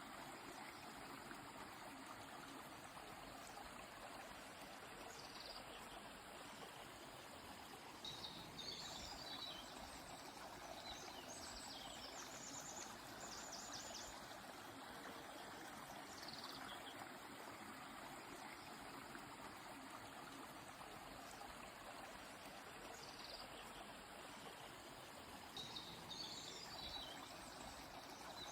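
A river flowing with a steady, gentle rush of water, while small birds sing short high chirping phrases several times over it, most clearly about eight seconds in, around twelve seconds and near the end.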